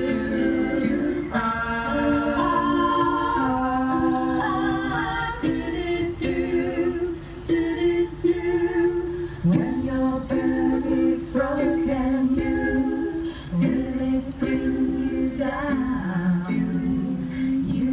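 Women's voices singing a cappella, several held notes overlapping in close harmony and moving slowly from chord to chord.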